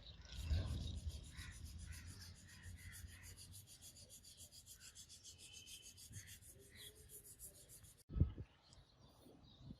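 Fast, even back-and-forth rubbing strokes, about six a second, which stop abruptly about eight seconds in; a low thump follows.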